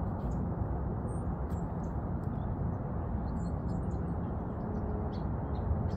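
Outdoor ambience: a steady low rumbling noise with faint, scattered high bird chirps.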